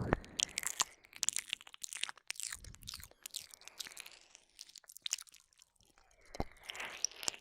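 Close-up wet mouth sounds on a binaural microphone: licking, lip smacks and tongue clicks in quick irregular runs, with a quieter gap about five seconds in.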